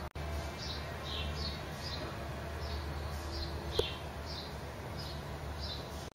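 A small bird chirping over and over, short falling notes about two a second, over a steady low background rumble. A single sharp click comes near the four-second mark.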